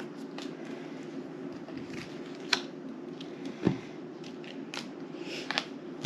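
Small sharp clicks and taps of things handled on a table, with one low thump a bit past halfway, over a steady low hum.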